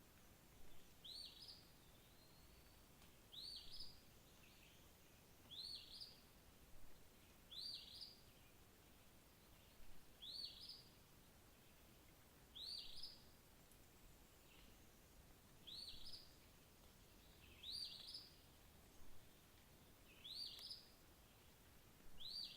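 A single songbird repeating a short, high, rising chirp about every two seconds, faint against a quiet outdoor background hiss.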